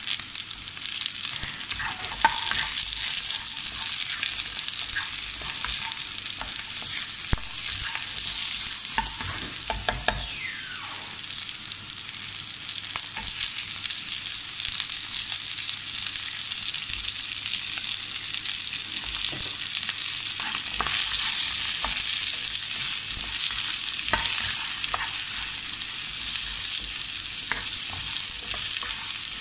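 Chopped ground chicken, carrots and green beans sizzling as they are stir-fried in a nonstick wok, with a spatula scraping and clicking against the pan throughout.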